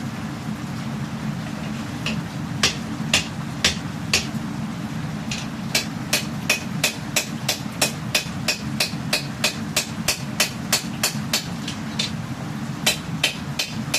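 Hammer blows on steel as a katana blade is forged: a few strikes about two seconds in, then a steady run of about three strikes a second, with a short pause near the end before they resume. A steady low rumble runs underneath.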